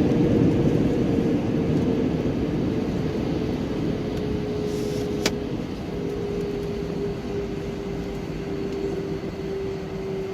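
Airbus A319 jet noise heard from inside the cabin: a rumble that fades steadily as the aircraft slows, under a steady hum that drifts slightly lower in pitch. There is a single sharp click about five seconds in.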